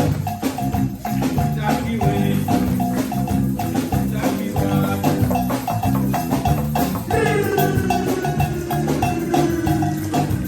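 Live band music with percussion and shakers, a repeating bright melodic figure over steady bass notes. About seven seconds in, a long line slides downward over the groove.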